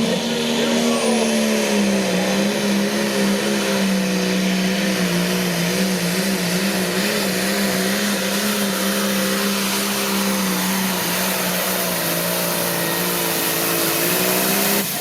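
Light limited super stock pulling tractor's turbocharged diesel engine held at steady high revs under full load during a pull, cutting back suddenly near the end.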